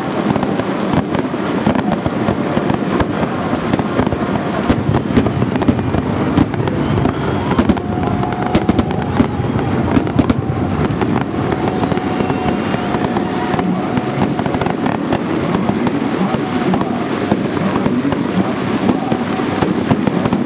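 Fireworks salute: a continuous barrage of bangs and crackling from bursting shells. The cracks come thickest from about seven to eleven seconds in.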